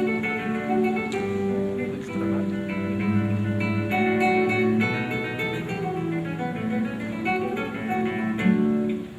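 Solo acoustic guitar music, a fingerpicked melody over a moving bass line, with a brief dip in loudness near the end.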